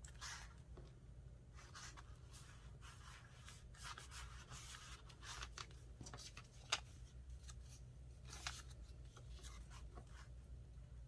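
Faint rustling and rubbing of paper pieces being handled and taken apart, with a sharp click about seven seconds in and a softer one a little later, over a steady low hum.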